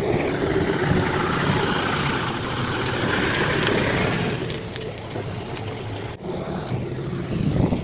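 Bulldozer's diesel engine running steadily with a noisy rush over it that eases about four and a half seconds in; the sound drops out briefly about six seconds in.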